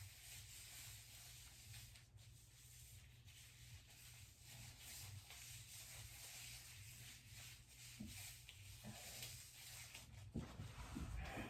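Faint, irregular rubbing and rustling of hands working hair dye through hair, over a low steady hum. A few louder scrapes come near the end.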